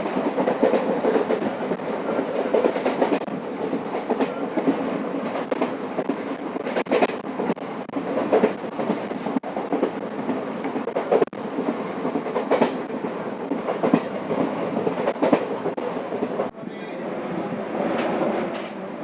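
Passenger train running along the line: a steady rumble of the coach with the wheels clacking over rail joints.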